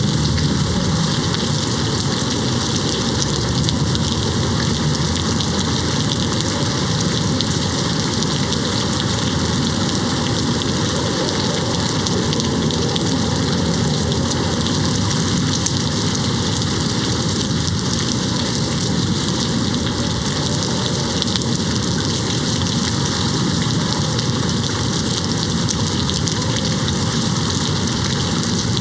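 Steady rain falling and hitting window glass, a dense, even hiss with no breaks.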